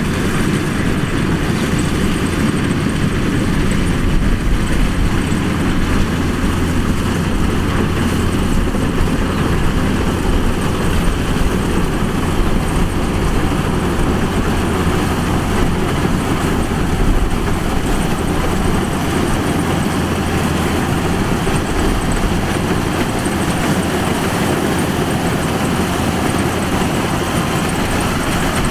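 Kubota DC-105X combine harvester running at work, its engine and machinery making a steady, even drone with a constant low hum underneath.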